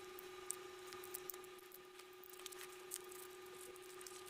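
Faint clicks and light taps as a phone's detached glass back cover and parts are handled on the bench, over a steady hum.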